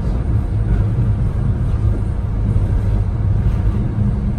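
Steady low rumble of a moving passenger train, VIA Rail's 'Canadian', running along the track.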